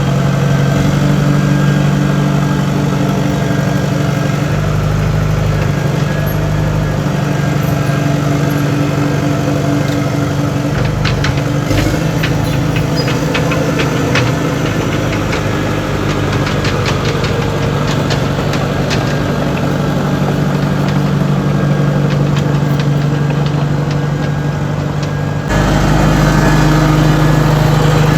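Compact track loader's diesel engine running steadily. A run of short clanks comes about twelve seconds in, and the engine sound shifts abruptly near the end.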